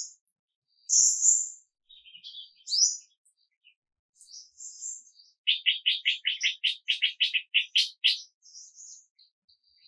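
Birds calling: scattered high chirps and quick rising whistles, then a fast trill of about a dozen repeated notes, roughly five a second, from about five and a half to eight seconds in.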